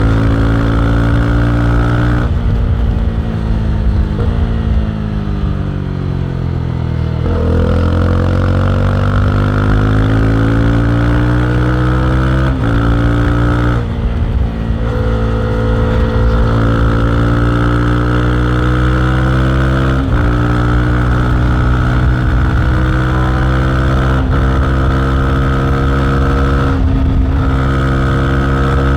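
Honda CB300R's single-cylinder engine under way. Its pitch falls for several seconds as the bike slows, then climbs as it accelerates, with a couple of quick breaks in the note like gear changes, then holds steady at cruising revs with a few short dips.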